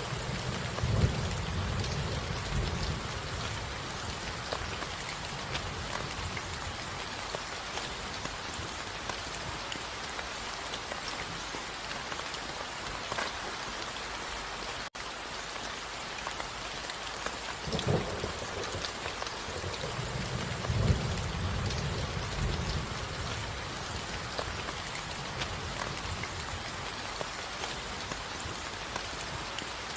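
Steady rain falling, with low rolls of distant thunder near the start and again about two-thirds of the way through.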